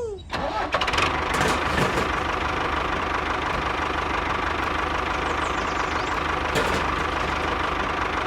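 A small machine's engine or motor running steadily, with a few clicks and knocks in the first two seconds.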